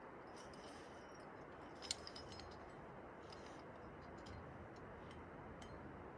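Small metallic clicks and clinks of climbing hardware, with one sharp click about two seconds in, over a steady faint hiss.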